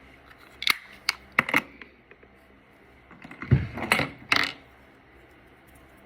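Small hard makeup containers and tools being handled and set down: a few sharp clicks in the first second and a half, then a short cluster of clatters with a dull knock about three and a half seconds in.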